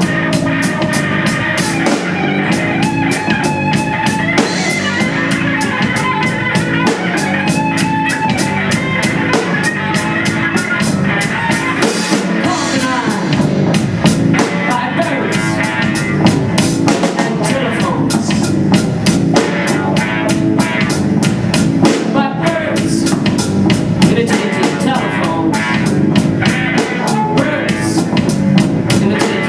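Live rock-style band music: a drum kit keeps a steady fast beat under sustained and sliding pitched instrumental lines.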